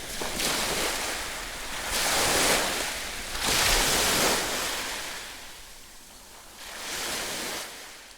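Ocean surf: waves breaking in several surges of rushing noise, fading out near the end.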